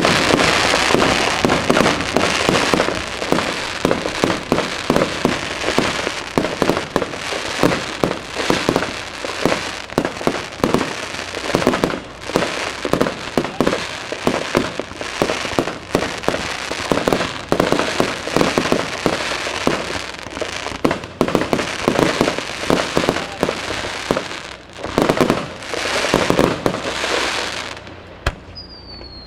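Fireworks crackling densely, a rapid, continuous run of many sharp pops and bangs that thins out and stops near the end. A single falling whistle follows just before the end.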